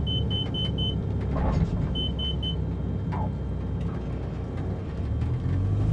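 Steady low rumble of an aircraft in flight heard from the cockpit, with a quick, high electronic beeping through the first second and again briefly about two seconds in.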